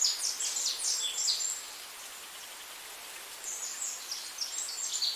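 Birds chirping in quick, high clusters over a steady hiss, in two spells: one in the first second and a half and another from about three and a half seconds.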